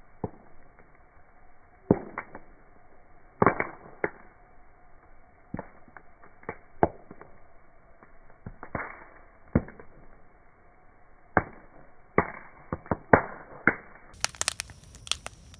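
Wood crackling in a campfire: irregular sharp pops and cracks, a second or so apart. Near the end the crackle turns brighter and much denser.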